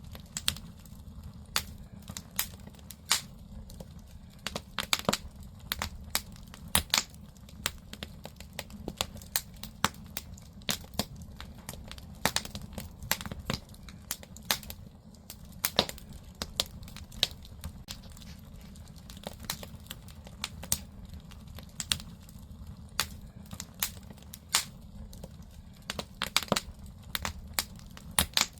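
Firewood burning in a traditional Korean agungi furnace: irregular sharp crackles and pops over a steady low rumble of the fire.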